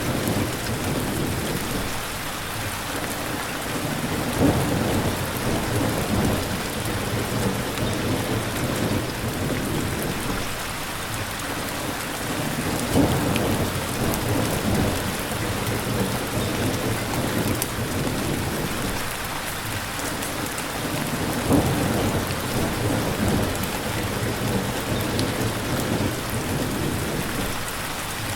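Steady rain with low rumbles of thunder swelling up three times.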